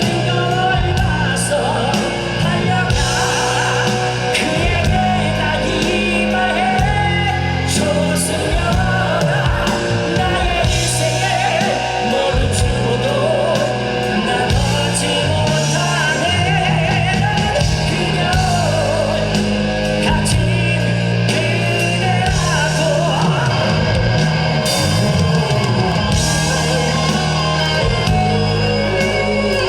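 Live rock band playing a power ballad: drums, bass and electric guitar under a male lead voice, sung with a wavering, sustained pitch.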